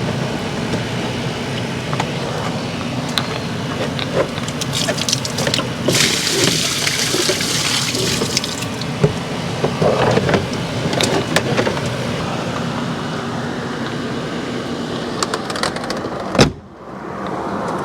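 Water from a tub full of air-conditioner condensate being poured out and splashing, with a brief heavier rush of water about six seconds in, scattered knocks, and a sharp knock near the end.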